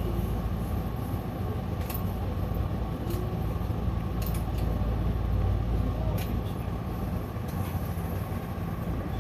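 Electric commuter train heard from inside the car as it comes into a station: a steady low rumble with a constant hum and a few faint clicks.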